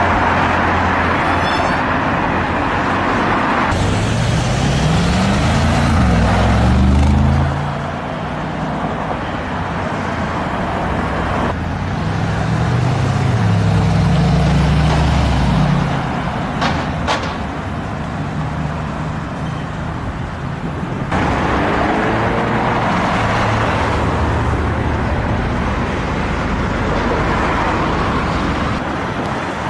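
Supercar engines accelerating past in street traffic, one car after another, with abrupt cuts between passes. Each pass has the engine note climbing and dropping as the car pulls away and shifts gear.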